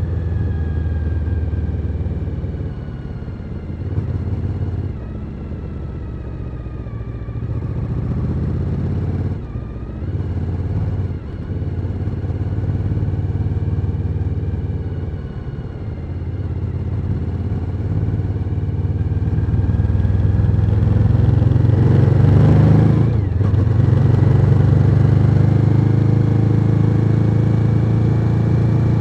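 Suzuki SV1000N's 90-degree V-twin running on the road, its pitch easing down and picking up again with throttle and gear changes. It grows louder in the latter part, with a brief surge about 22 seconds in and a stronger steady drone after it.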